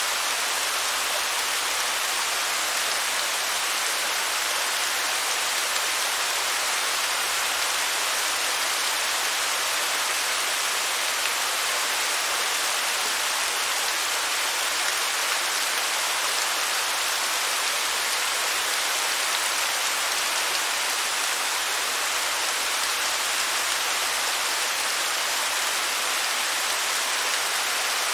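Waterfall: a steady hiss of falling and splashing water, bright and even, with little low rumble.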